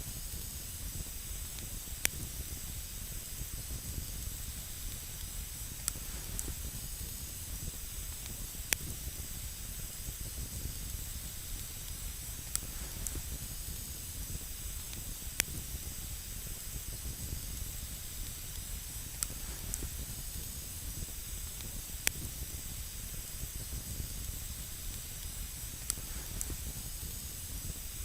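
Wood campfire burning with a steady hiss and scattered sharp crackles and pops every few seconds.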